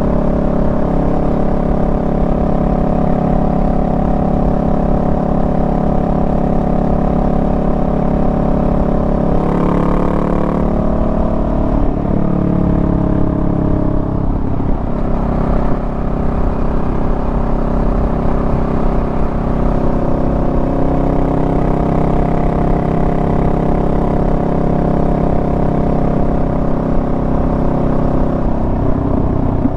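Honda Rebel 500's parallel-twin engine running steadily while riding, its pitch shifting as the revs change about ten to fifteen seconds in and again near the end.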